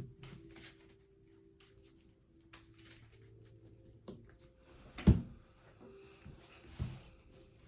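Quiet handling at a table: a few light clicks, then a sharp thump about five seconds in and a softer one near the end, as of cards or a hand set down on the tabletop.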